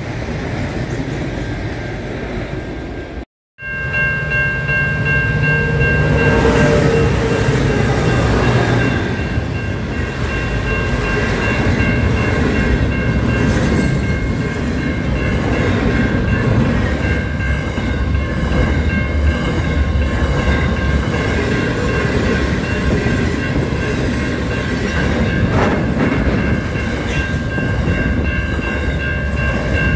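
An Adelaide Metro diesel railcar passing for about three seconds, then an abrupt cut to a container freight train rolling past at close range. The freight train gives a steady low rumble of wheels on rail, with several steady high-pitched tones running over it.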